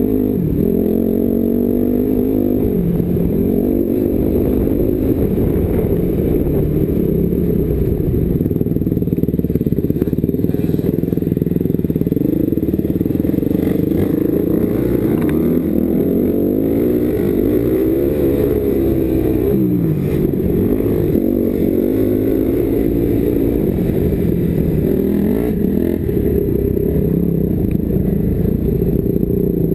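Motocross bike engine heard from the rider's helmet, revving up and falling back again and again as it accelerates out of corners and shuts off into them, over a low rumble.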